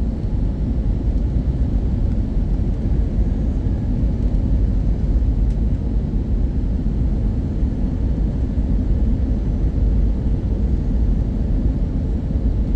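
Airbus A320 cabin noise heard from a forward seat: a steady low rumble of engines and airflow, with a faint steady hum above it.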